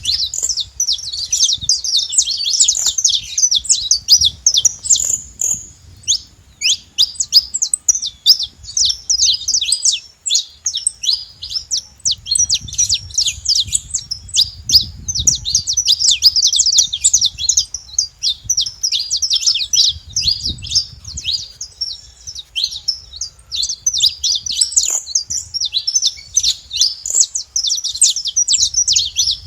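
Saffron finches singing and chirping in a near-continuous stream of rapid high notes, with a brief lull about six seconds in.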